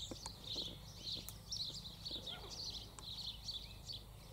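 Birds chirping and twittering in a busy, continuous chatter of short high notes, with a few faint taps mixed in.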